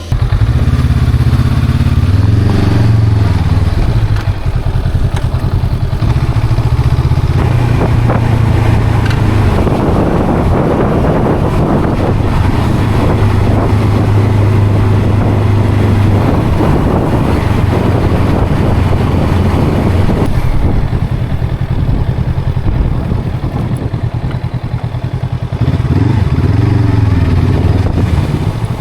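Honda CL500's parallel-twin engine and exhaust running loudly under way, its revs rising and falling a few seconds in and again near the end. A rushing noise builds in the middle stretch.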